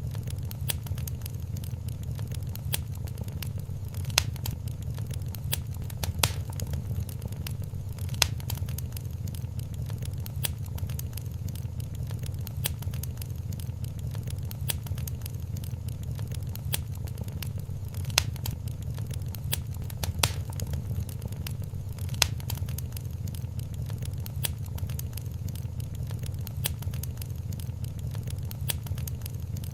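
Wood fire crackling in a fireplace: a constant stream of small sharp crackles and a few louder pops spaced a couple of seconds apart, over a steady low rumble.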